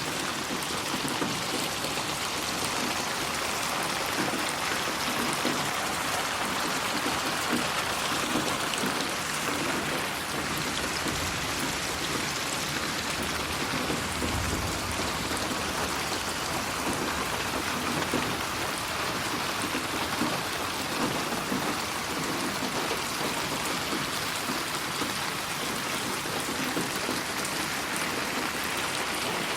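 Steady rain falling, a dense even hiss of drops on surfaces, with a soft low rumble for a few seconds near the middle.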